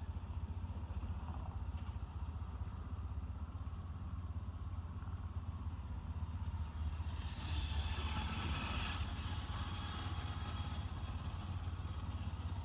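Motor vehicle engine idling with a steady low rumble. A louder burst of hissing noise comes in about seven seconds in and lasts a couple of seconds.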